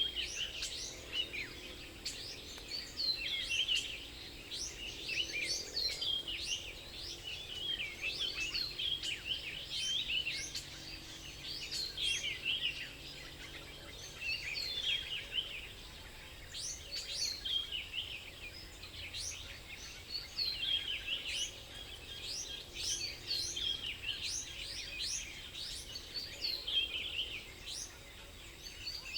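Small songbirds chirping and twittering nonstop, many quick, high-pitched overlapping calls, over faint low background noise.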